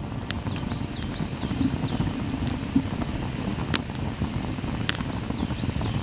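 Campfire crackling with a few sharp, separate pops over a steady low rush of flame and wind. A small songbird sings a run of four or five repeated high whistled notes early on, and again near the end.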